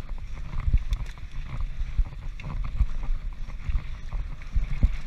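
Wind buffets a helmet-mounted action camera's microphone as a Transition Patrol full-suspension mountain bike rattles and knocks over rough trail at speed, with frequent uneven thuds from impacts.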